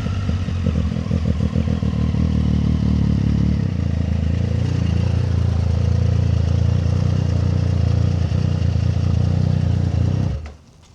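Triumph Street Triple 765 RS inline-three motorcycle engine running at low revs, uneven for the first few seconds and then steady, before it stops abruptly near the end.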